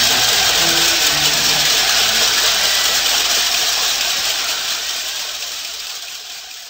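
A pit bike's 125 cc engine running steadily, fading out toward the end.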